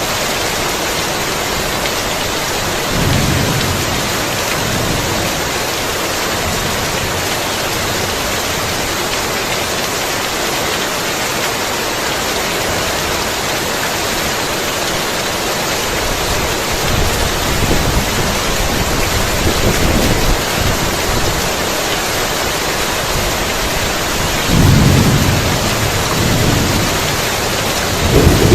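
Heavy rain pouring steadily, with rolls of thunder: a short rumble about three seconds in, a longer rolling stretch past the middle, and a louder rumble near the end.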